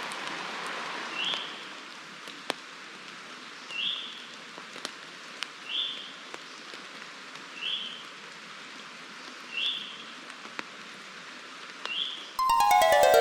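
Steady rain falling, with scattered sharp drips and a short high chirp repeating about every two seconds. Just before the end a plucked, harpsichord-like music sting comes in with a falling run of notes, louder than the rain.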